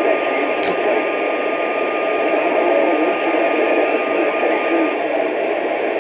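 Two-way radio receiver putting out loud static hiss from an open channel, with a steady whistle tone in it that stops about five seconds in.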